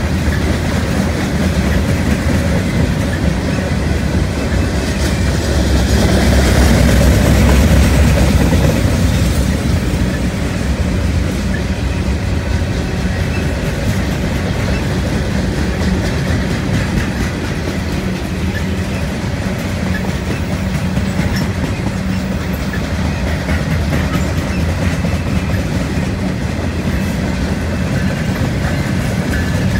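Norfolk Southern gondola freight cars rolling past on the nearby track, their steel wheels running steadily over the rails, growing louder for a few seconds about six seconds in.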